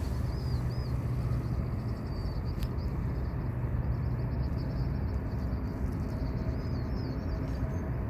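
Outdoor ambience: a steady low rumble with faint, high-pitched chirps repeating over it.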